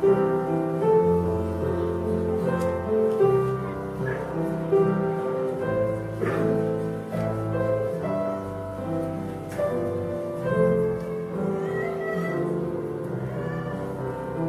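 Instrumental music led by piano, with long held notes that change pitch every half second or so.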